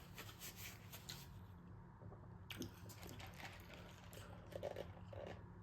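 Quiet, close-miked chewing and wet mouth sounds of someone eating fast food, a string of small soft clicks and squishes, over a faint steady low hum.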